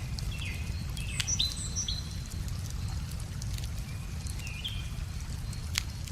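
Wood fire crackling, with sharp pops about a second in and a louder one near the end, over a steady low rumble. Small birds chirp and whistle several times.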